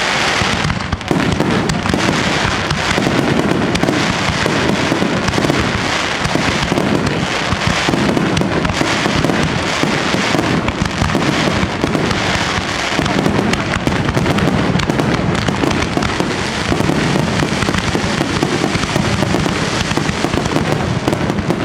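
Fireworks display going off without a pause: a dense barrage of bursts and crackling.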